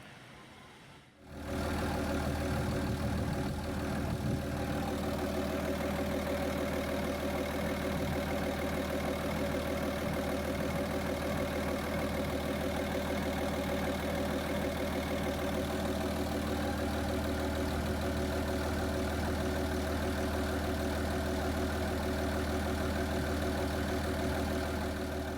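Barge's inboard engine comes in suddenly about a second in, then idles steadily with a low, even running note.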